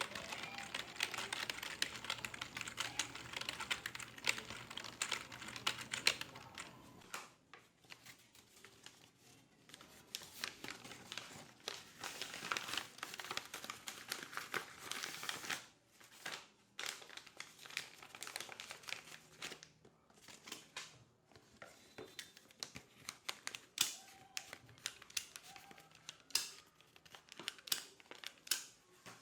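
Office ambience: a computer keyboard typed on in fast bursts of clicks, with pauses of scattered single clicks between, over a faint low hum.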